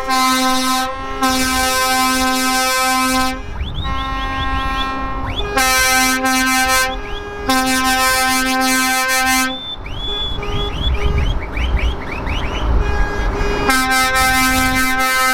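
Truck air horns blasting in long sustained blasts with short breaks, over a low rumble of engines; between the blasts come quick rising whistle-like chirps.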